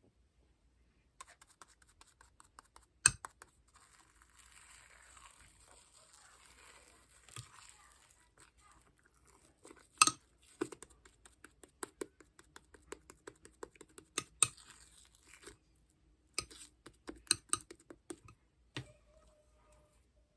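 Shaving-foam marbled slime being squeezed and poked by hand: sticky, irregular clicks and pops, a few of them sharp and loud, with a softer squishing stretch a few seconds in.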